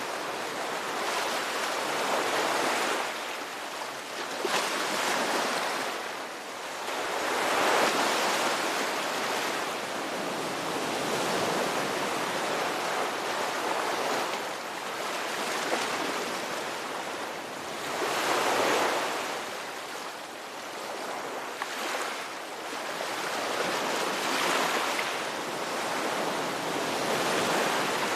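Ocean waves washing on a shore, a continuous surf hiss that swells and eases with each wave, about every three to five seconds.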